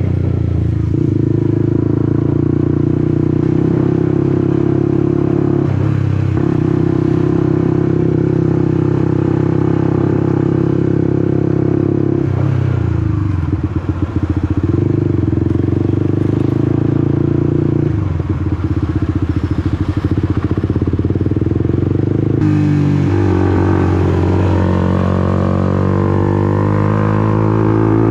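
Honda CBR150R's single-cylinder four-stroke engine running under way, heard from the rider's position: a steady engine note that dips briefly three times as the throttle is eased, then rises near the end as the bike accelerates.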